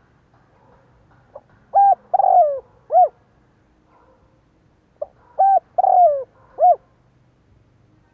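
Spotted dove cooing: two phrases, each a short lead-in note followed by three coos, the second coo of each phrase longer and falling in pitch.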